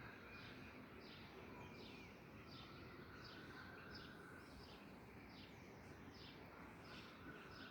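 Faint birdsong outdoors: a bird repeats short, high, falling chirps about one and a half times a second over a low steady background hiss.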